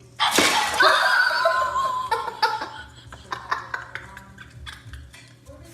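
A person bursting out laughing, loud at first and trailing off into short bursts of laughter.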